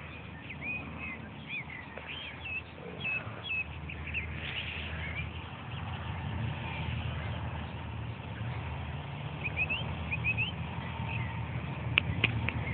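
A small dirt bike engine running with a low hum that grows louder about halfway through, while birds chirp. A few sharp clicks come near the end.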